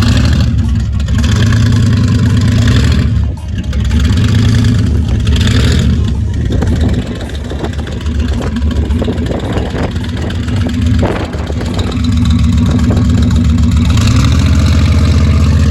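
A vehicle engine running and revving, holding a steady note in long stretches and easing off briefly about three seconds in and again around six to seven seconds.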